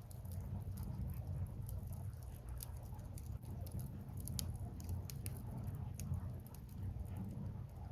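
Wood fire crackling, with scattered sharp pops and snaps from the burning logs over a steady low rumble; one pop about halfway through stands out.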